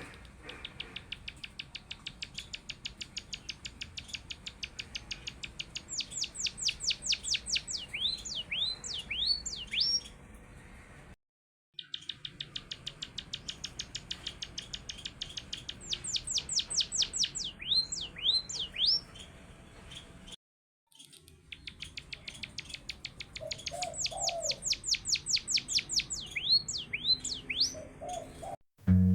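An emprit (munia) singing a rolling, canary-like song: a long, fast trill of rapid clicking notes that grows louder and quicker, then ends in a few swooping whistles. The phrase comes three times, with short dropouts between.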